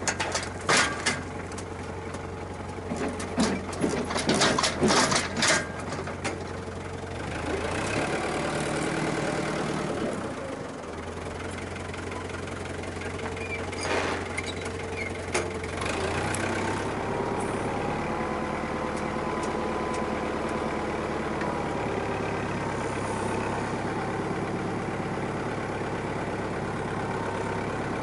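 Farm tractor's diesel engine running steadily, its speed shifting a couple of times, with a run of sharp metallic clatters and knocks in the first few seconds and two more about halfway through.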